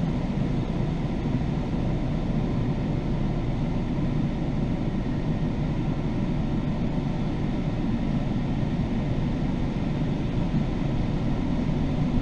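Automatic car wash machinery running over the car, heard from inside the cabin as a steady, even rushing noise.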